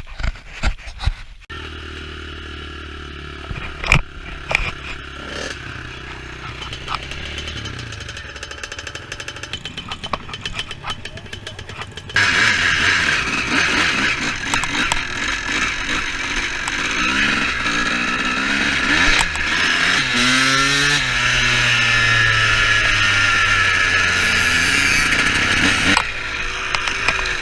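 Small two-stroke engine running: steady at first, then much louder from about twelve seconds in, with the revs rising and falling.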